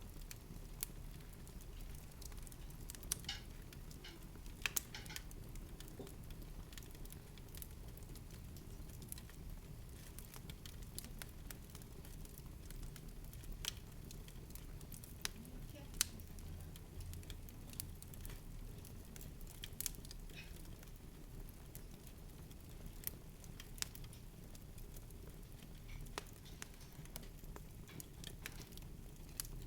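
Faint ambience: scattered soft clicks and crackles over a low, steady rumble.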